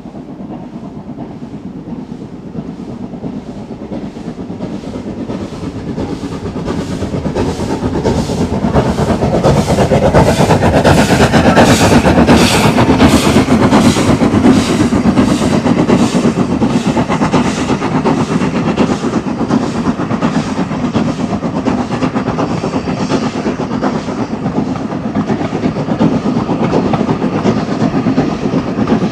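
A steam locomotive working hard up a steep gradient, with a regular exhaust beat of about two chuffs a second over the rumble of the train. It grows louder over the first ten seconds or so, is loudest about midway, then stays loud as the train passes.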